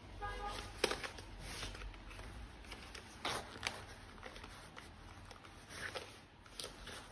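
Handling noise of toys and packaging being unboxed: scattered sharp plastic clicks, five or so, over soft rustling.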